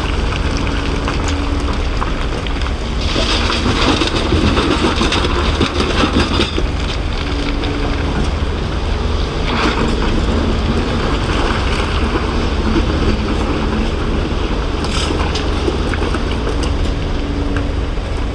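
Caterpillar 336 excavator's diesel engine running steadily with a low drone, broken by a few louder rushes of noise as it works.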